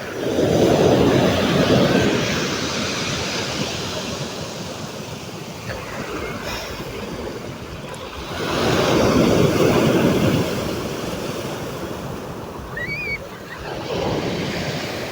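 Storm waves on the Black Sea breaking on the beach: one big crash about a second in, another around nine seconds in, and a smaller one near the end, with the wash of surf between them. Wind buffets the microphone.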